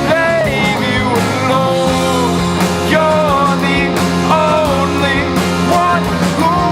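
Emo punk rock band playing: drums and distorted guitars under a melody line that bends and glides in pitch.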